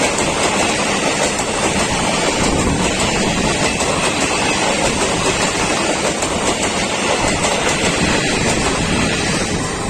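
Indian Railways intercity express train passing at speed close by: a loud, steady rush of coaches rolling over the rails with a faint clickety-clack of the wheels.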